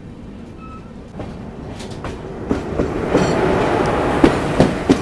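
A passing electric-hauled passenger train going by close on the adjacent track, heard from an open door of a moving train: a rush of noise that builds from about a second in and is loudest in the last two seconds, with sharp wheel clacks over the rail joints.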